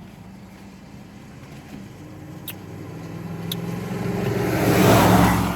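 A car passing on a wet road: its engine and tyre hiss build up, peak about five seconds in, then fade as it goes by. Two small ticks sound partway through.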